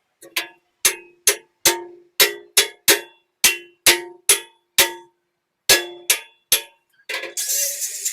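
Hammer striking steel, about two ringing metallic blows a second, each dying away quickly, with a pause of under a second midway. A brief hiss comes in near the end.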